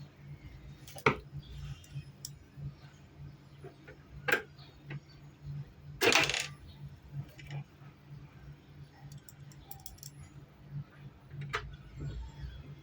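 A few sharp metallic clinks and knocks, the loudest about a second in and a longer rattling one about six seconds in, over a steady low hum.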